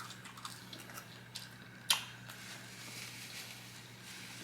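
Soft eating sounds as a person chews fast food, with a few small clicks and one sharp click about two seconds in, over a faint steady hum.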